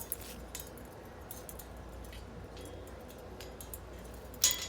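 Scattered light clicks and scrapes over a steady low background, with a louder brief rasp near the end.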